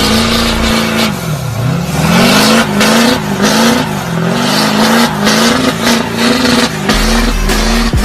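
Truck engine revving hard over and over, its pitch rising and falling about twice a second, with one deeper drop and climb about a second in.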